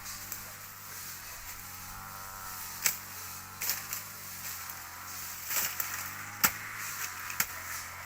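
Sharp, irregularly spaced knocks, about five of them, like a tool striking wood or bamboo, over a steady low hum.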